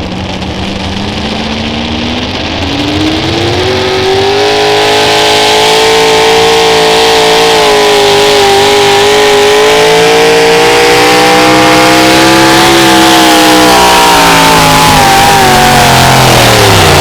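John Deere pulling tractor under full load on a pull: the engine's pitch climbs over the first few seconds, holds high as it drags the sled, then falls away near the end as the tractor is pulled down to a stop.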